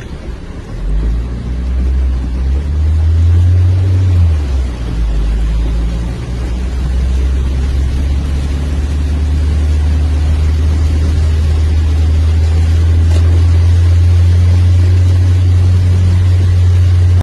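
A motor vehicle's engine running with a steady low drone that rises briefly about three seconds in, then settles, over a steady rushing noise.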